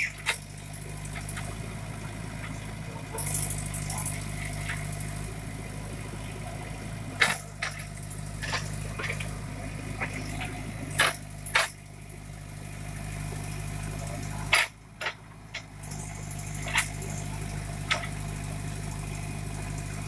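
JCB backhoe loader's diesel engine running steadily while working, with a series of sharp knocks and clanks at irregular intervals. The engine sound dips briefly about three-quarters of the way through.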